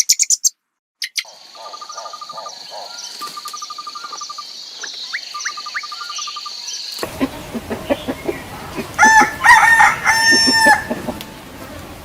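Birds chirping and trilling over a steady high-pitched drone. About seven seconds in the scene changes, and a rooster crows loudly in long drawn-out calls.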